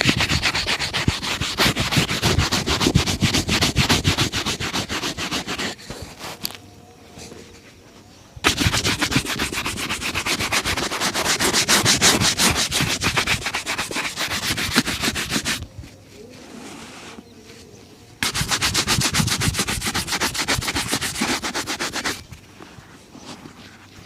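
Shoe being buffed with rapid back-and-forth rubbing strokes, in three long runs separated by short pauses.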